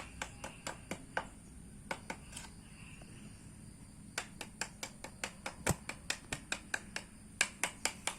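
A series of light, sharp taps on something hard, about three to four a second, pausing briefly partway through and then coming faster and louder near the end.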